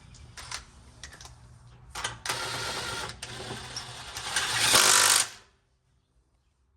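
A power impact wrench runs for about three seconds, spinning the lug bolts in to mount a car wheel. It gets louder near the end as the bolts seat, then stops suddenly. A few light knocks of the wheel and bolts being handled come before it.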